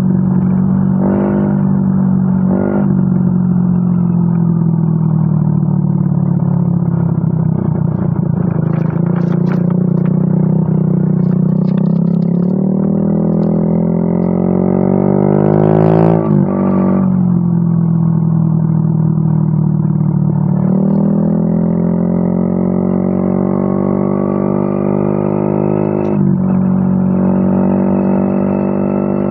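Yamaha Mio M3 scooter's single-cylinder engine running through a WRX aftermarket exhaust. It idles with two quick throttle blips, then is revved up in long climbs in pitch that drop back sharply three times.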